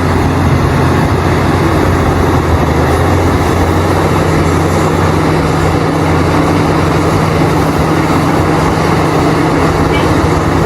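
Heavy diesel engines of large mining excavators and dump trucks running steadily as the excavators load the trucks, a loud low drone whose pitch shifts slightly about four seconds in.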